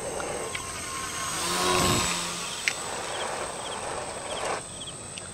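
RC Cessna 182 model plane passing over: its motor and propeller swell to a peak about two seconds in, then drop in pitch and fade. Insects chirp faintly throughout.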